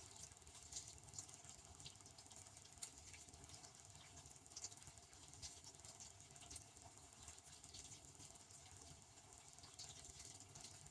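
Faint water spraying and pattering inside a running Devanti benchtop dishwasher, with irregular small spatters over a low steady hum.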